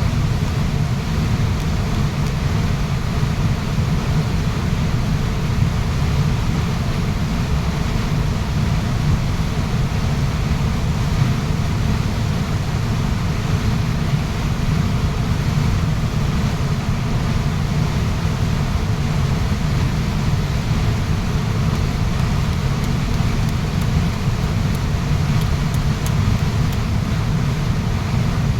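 Waterfall: a steady, unbroken rush of falling water with a deep rumble.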